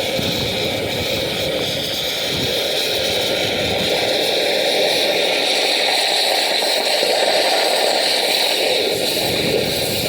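Oxygen lance burning into a seized steel excavator pin: a steady, loud hiss that grows a little louder in the second half.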